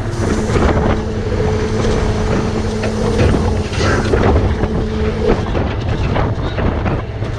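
Crane truck's engine running under strong wind buffeting the microphone, with a steady whine that cuts off about five seconds in and a few scattered knocks.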